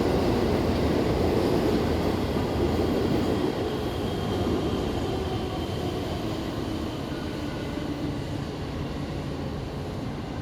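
Kyoto Tango Railway KTR8000-series diesel railcar train running, with engine and wheel noise that slowly fades over the stretch.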